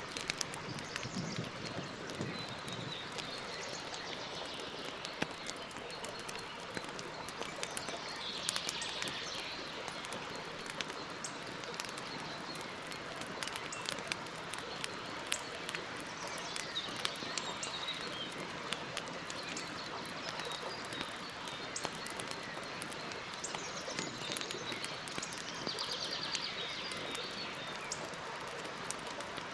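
Wood campfire crackling, with frequent sharp pops and snaps over a steady hiss of burning. Birds chirp in the background now and then.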